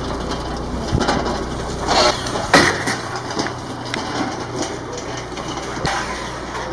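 A few scattered knocks and clicks over a low steady hum, which stops about two and a half seconds in.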